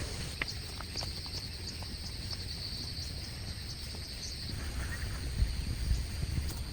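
Insects chirping high and fast over a low outdoor rumble, with scattered light clicks and taps. The chirping stops about four and a half seconds in.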